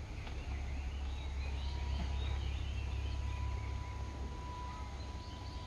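Birds chirping over a low steady rumble, with a faint steady high tone joining about a second in.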